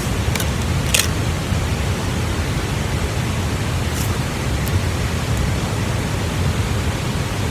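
Steady rushing noise like flowing water. A few short sharp clicks or crunches sound over it: about half a second in, more strongly about a second in, and twice more around four to five seconds in.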